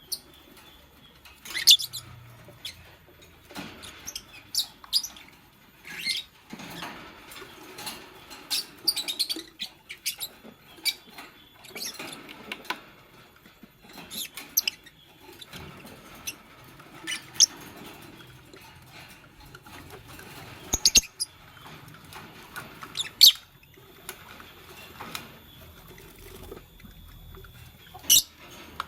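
Fischer's lovebirds giving short, sharp chirps at irregular intervals, with soft scratching and rustling between them.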